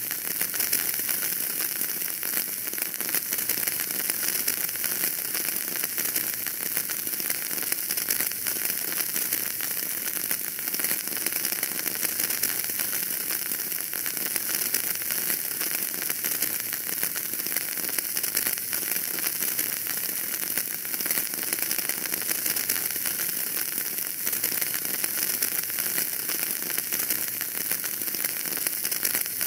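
Wood fire burning in a fireplace: a steady, dense crackling of small pops over a constant hiss.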